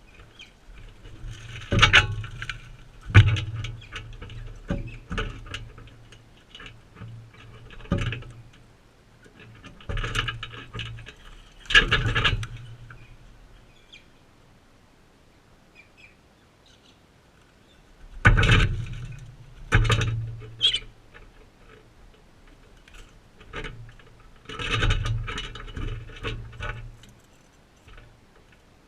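Crimson rosellas feeding right at the microphone, with irregular knocks, scrapes and thuds from beaks and feet on the feeder and the camera. Short chirps come in between.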